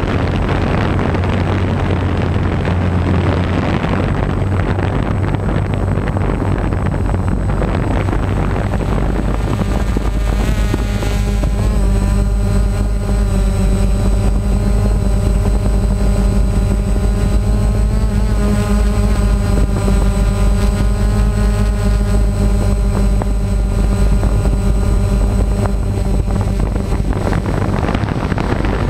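Wind rumbling on the microphone. About a third of the way through, an engine's steady drone comes in, rising briefly in pitch and then holding, and it stops shortly before the end.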